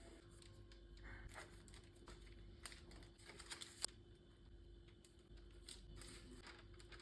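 Faint handling sounds: scattered light clicks and short rustles, the sharpest click a little before the middle, over a steady low hum.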